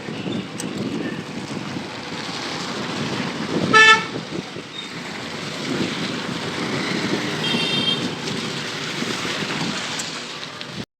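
Road traffic noise heard from a moving bicycle, with a vehicle horn tooting once loudly about four seconds in and a fainter, higher-pitched horn near eight seconds. The sound cuts off just before the end.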